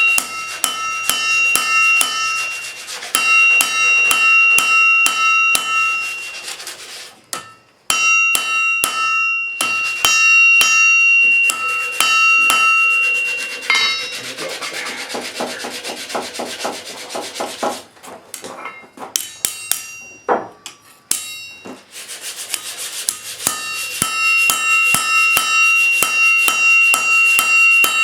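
Steel struck repeatedly with quick, light hammer blows, each one ringing at the same few metallic pitches, in runs broken by short pauses. Around the middle there is a stretch of rougher scraping or rubbing.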